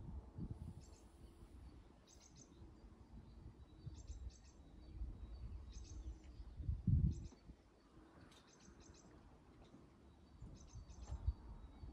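Small birds chirping in short, quick clusters about once a second, over a low rumbling noise that swells briefly about seven seconds in.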